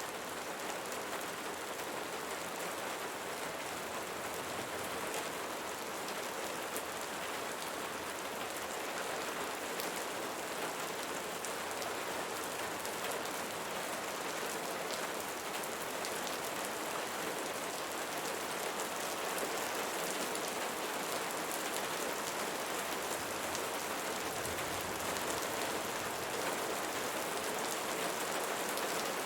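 Steady rain falling, an even hiss of rain with fine drop patter.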